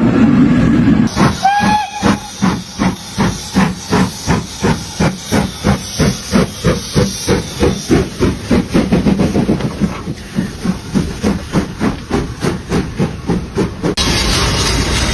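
Steam locomotive working hard, its exhaust chuffing in an even beat of about two to three chuffs a second that quickens slightly, with a short whistle toot just after the chuffing begins. A steady rushing hiss comes before the chuffing and again in the last second.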